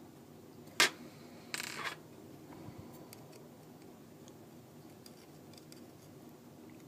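Small repair tools working on a disassembled iPhone 4S: one sharp click about a second in, then a short scraping rattle, then a few faint ticks.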